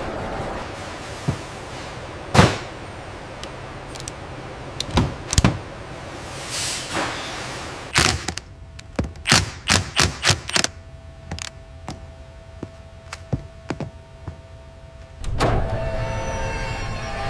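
Mechanical clunks and knocks over a steady running hum, with a quick run of about six sharp strikes about halfway through. A louder machine running noise comes in near the end.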